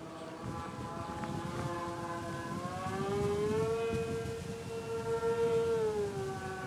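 Twin electric motors and propellers of a Hercules Gentle Giant RC plane whining steadily in flight. The pitch rises about three seconds in, holds, and falls back near the end, with wind rumbling on the microphone underneath.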